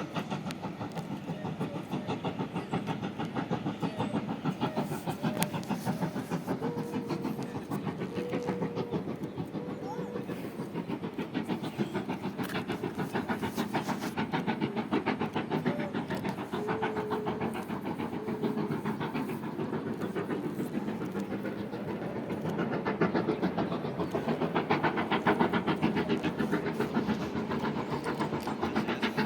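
Train running along the rails with a steady, fast rhythmic clatter.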